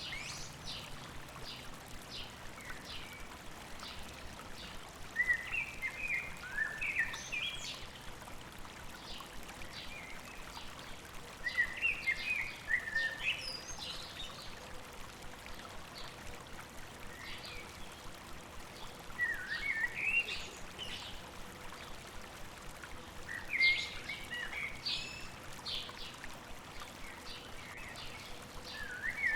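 Songbirds singing short phrases of quick chirps and trills every several seconds, over the steady rush of a flowing river.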